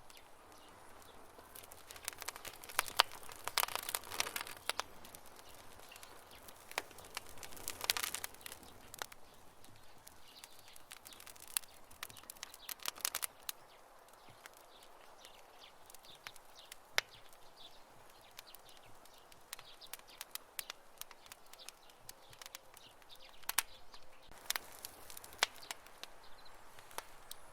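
Wood campfire crackling, with sharp pops and snaps scattered irregularly and short clusters of denser crackling a few times.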